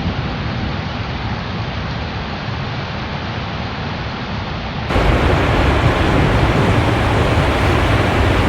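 Hurricane wind and rain making a steady, even rushing noise. About five seconds in it jumps to a louder, fuller rush as the footage changes.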